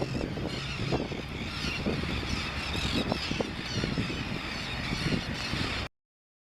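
A South American tern colony calling faintly under a heavy, uneven low rumble; all sound cuts off abruptly near the end.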